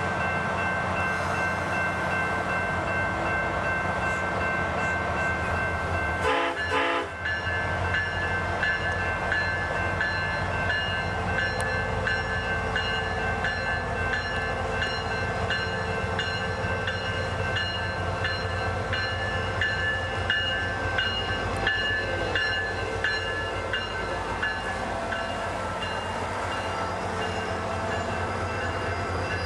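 SunRail commuter train passing close, its MotivePower MP32PH-Q diesel locomotive running over the rumble of the wheels on the rails, with several steady high tones held throughout. There is a brief break about six seconds in.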